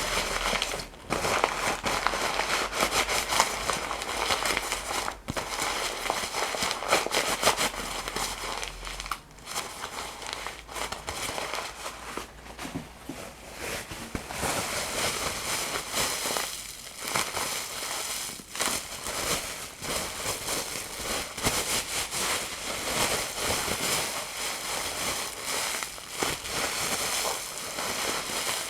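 Close-miked crinkling and crackling of handled material, a continuous run of many small crackles.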